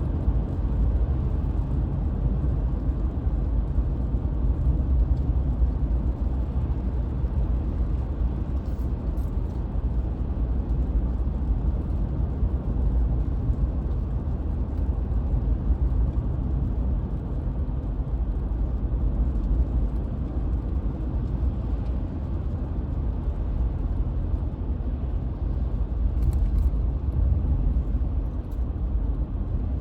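Car on the move: a steady low rumble of engine and tyres on the road.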